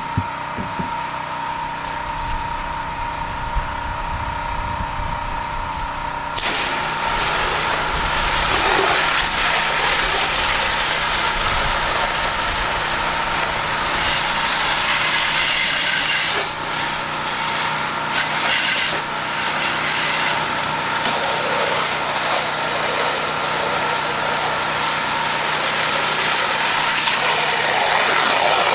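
A pressure washer's engine runs steadily. About six seconds in, the spray gun opens and a loud, even hiss of high-pressure water starts as the rinse water hits the vinyl siding, going on over the engine.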